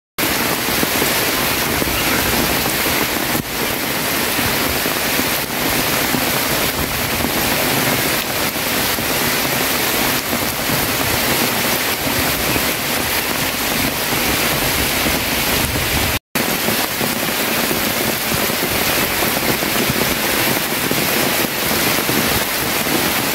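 Heavy rain pouring steadily, a dense even hiss of drops. It drops out for an instant about sixteen seconds in.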